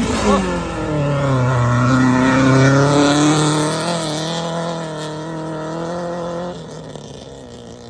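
A race car's engine running hard, its pitch dropping during the first second and then holding steady before fading away near the end.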